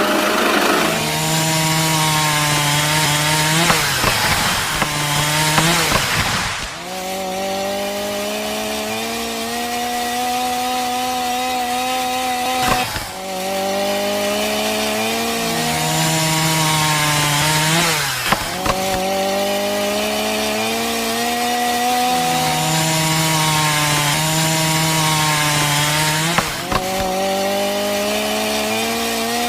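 A small motor whining steadily. Its pitch climbs slowly for several seconds, then drops suddenly and starts over, again and again, as if its load keeps changing.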